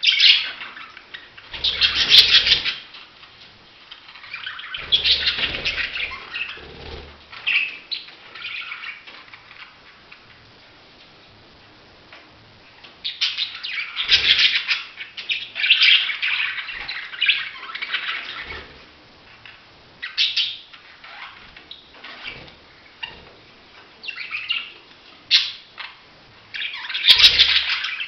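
Budgerigars chirping and warbling in bursts of a few seconds, with quieter gaps between.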